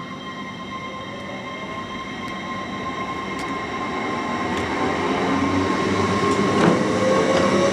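A train approaching through the station, growing steadily louder, with a steady whine and a few faint clicks along the way.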